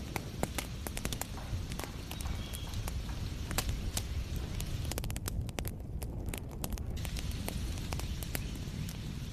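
Wood fire crackling, with irregular sharp pops, over a steady hiss and low rumble of rain.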